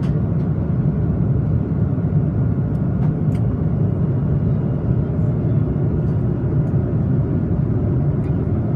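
Steady low rumble of an airliner cabin in flight: jet engine and airflow noise, with a few faint clicks.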